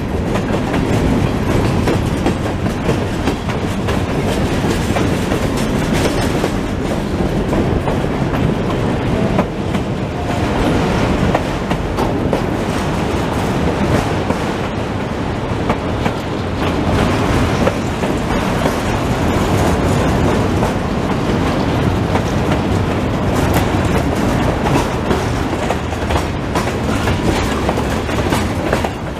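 Freight cars (covered hoppers and autoracks) rolling past close by: a steady rumble of steel wheels on rail, with a continual clickety-clack of wheels striking rail joints.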